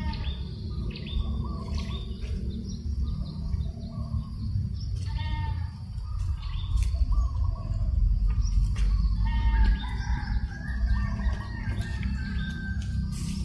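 Several birds chirping and calling in short, repeated notes over a steady low rumble of breeze on the microphone. The wind rumble grows stronger about halfway through.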